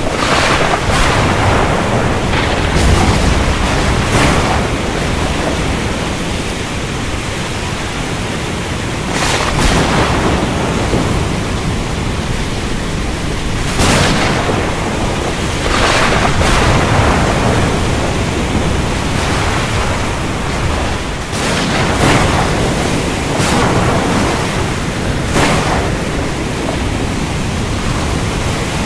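Thunderstorm over the ocean: a steady rush of rain and sea with a deep rumble of thunder underneath. Short, sharp surges of noise come every few seconds, bunched near the start and again in the second half.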